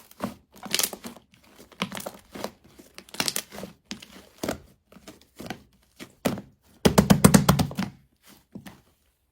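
Slime being squished and stretched by hand, making short crinkly, crackling squishes about once a second, with a longer, louder crackling squish about seven seconds in.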